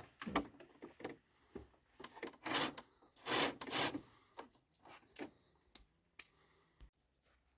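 Wood being rubbed and scraped in irregular strokes, with two longer scrapes in the middle.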